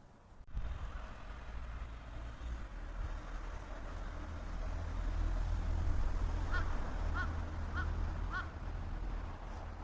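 A bird gives four short, evenly spaced calls in quick succession over a steady low rumble that starts suddenly about half a second in.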